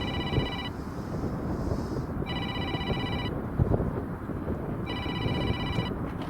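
Wind buffeting the microphone, with an electronic alarm beeping over it in bursts of about a second, repeating about every two and a half seconds.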